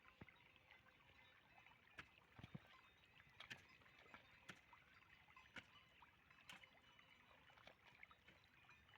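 Near silence: a faint hiss with a dozen or so soft, irregular clicks and ticks.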